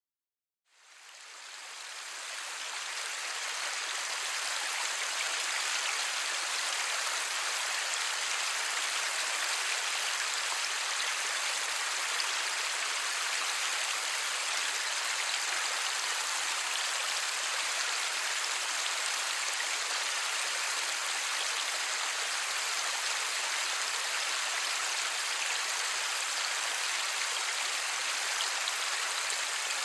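Light, steady rain with no thunder, a dense even hiss that fades in over the first few seconds.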